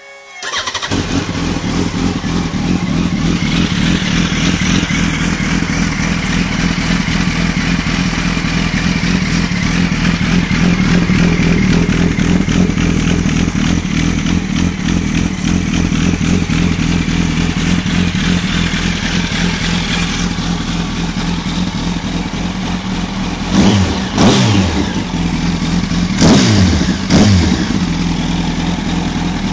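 2004 Yamaha R1's inline-four engine starting up about half a second in, then idling steadily. Near the end the throttle is blipped in a few quick revs that rise and fall, in two short groups.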